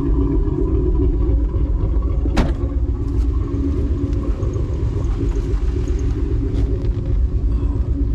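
A car running with a steady low rumble, and a single sharp click about two and a half seconds in.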